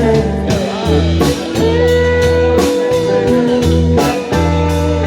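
Live band music: a blues instrumental led by guitar, over a steady bass and drums.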